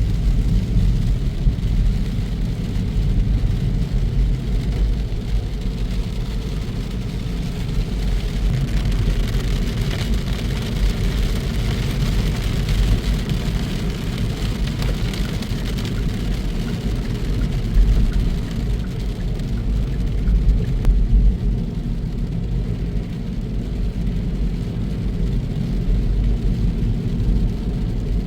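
Scania truck driving along: a steady low engine and drivetrain rumble with a hiss of tyre and road noise that swells about halfway through.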